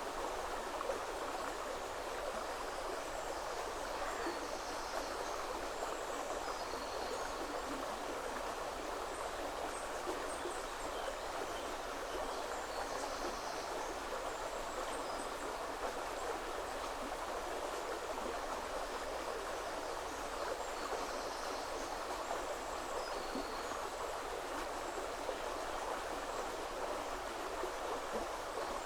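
River water flowing in a steady, even rush. Faint, brief high bird chirps come and go here and there.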